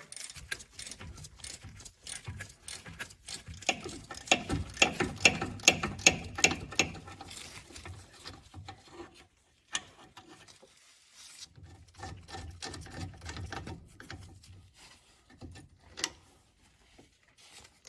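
Hand ratchet with a deep 12mm socket clicking in quick runs while it unscrews the long sway bar bushing bracket bolts from the subframe. The clicking is loudest in the first half, stops for a moment near the middle, then goes on more quietly.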